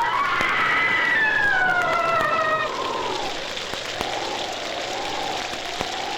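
Spooky sound-effects record: a long wail glides slowly downward over a steady hiss of rain. Then a lower, wavering howl rises and falls.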